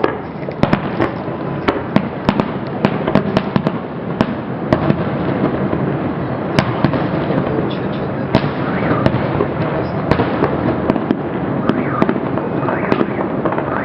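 Fireworks display: dozens of sharp cracks of bursting shells at uneven intervals over a continuous rumble of bursts.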